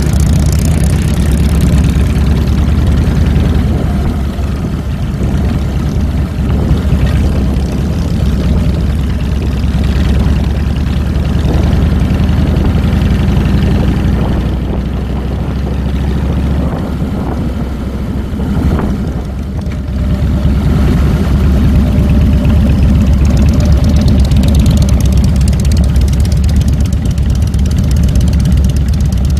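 Harley-Davidson Fat Boy's V-twin engine running steadily while riding. It eases off for several seconds midway, then picks up and runs louder again about twenty seconds in.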